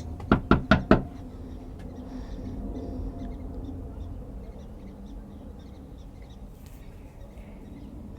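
Four quick knocks on a door, then faint steady background.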